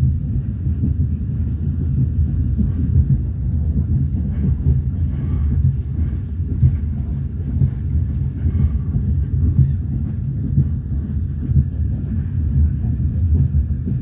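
A moving train running along the track, heard from inside the carriage as a steady low rumble.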